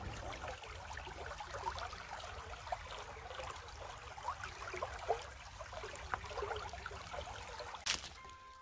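Water trickling and gurgling in a small stream, with many short gurgles over a steady low rumble. There is a brief sharp knock near the end.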